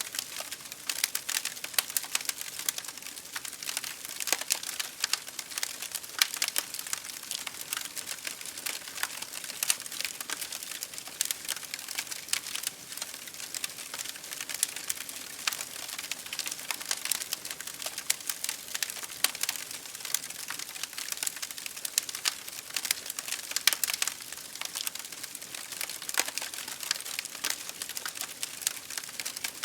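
Wood fire crackling in a fireplace, with many small irregular pops and snaps, over a steady hiss of rain on a window pane.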